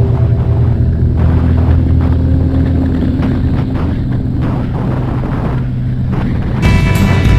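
Yamaha YXZ1000R side-by-side's three-cylinder engine running with a steady low rumble, heard on board as it drives down the mountain. Music comes back in near the end.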